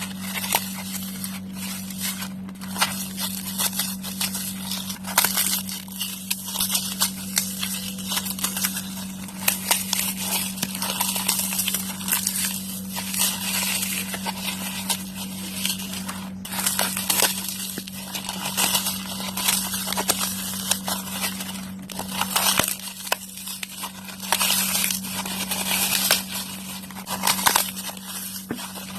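Dry floral foam being crushed, crunching and crackling in dense, irregular bursts that come and go in waves. A steady low hum runs underneath.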